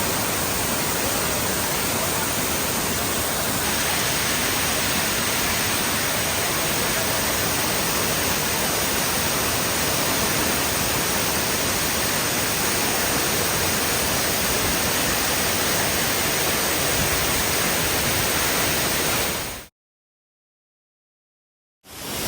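Steady rushing noise of a waterfall, an even wash of water sound with no change in rhythm. It cuts out to silence for about two seconds near the end, then resumes.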